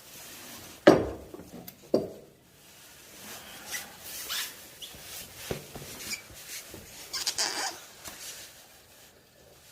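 Handling noise: two sharp knocks about one and two seconds in, then scattered lighter knocks and rubbing.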